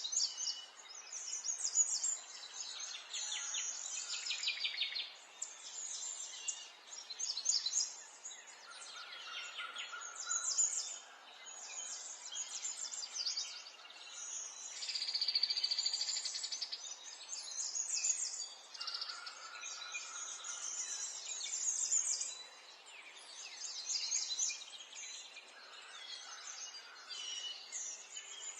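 Several small songbirds chirping and singing over one another in quick, high chirps and short trills, with a longer steady trill about fifteen seconds in.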